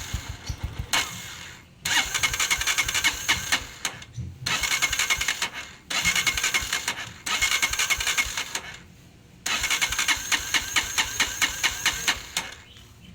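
Honda TMX 125 Alpha single-cylinder engine being kick-started again and again: about six short bursts of uneven firing that die out each time, the last one running for about three seconds before fading. This is a hard-starting engine that won't stay running, one with a loose valve clearance and loud valve tapping.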